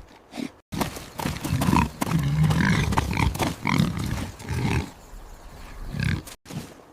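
Wild boar grunting in a run of short, rough calls, starting after a sudden break just under a second in and cut off abruptly near the end.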